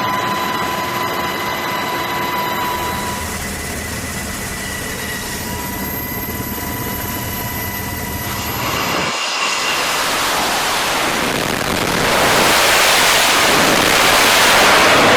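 Jet aircraft engine running with a steady whine of several high tones over a low rumble. About nine seconds in it gives way to a loud rushing jet roar that builds toward the end.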